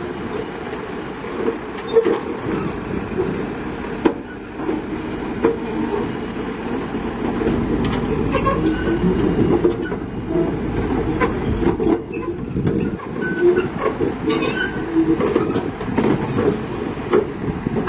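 Steel crawler tracks of a tracked heavy machine clanking and squealing as it moves, over the machine's engine running steadily, with many sharp clicks and squeaks throughout.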